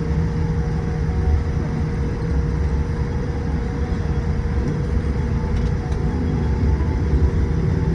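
Steady cabin noise inside a Boeing 787-8: a low rumble with a constant hum and a faint steady higher tone.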